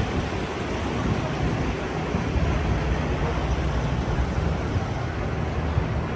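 Busy city street ambience: steady traffic noise with a low, uneven rumble.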